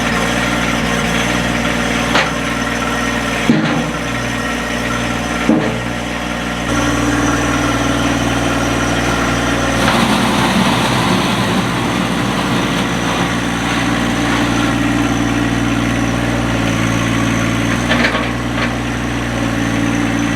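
Three-cylinder diesel tractor engine running after a cold start on glow plugs, with a few short knocks; about seven seconds in it steps up to higher revs and stays there.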